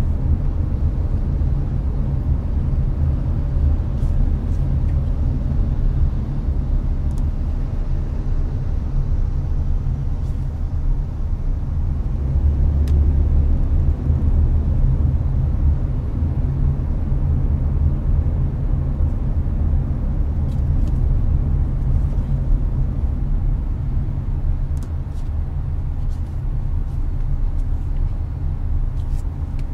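Cabin noise of a Hyundai Avante cruising on the highway: a steady low road and tyre rumble with the air conditioning blowing, and a few faint ticks.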